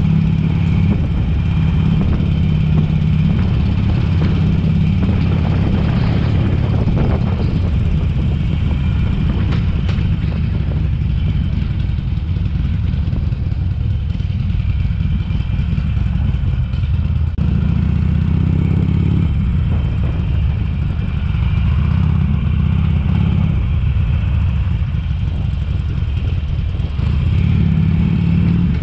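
A 2007 Harley-Davidson Sportster 883 Custom's air-cooled V-twin engine running as the bike is ridden. The engine note swells under throttle a few times.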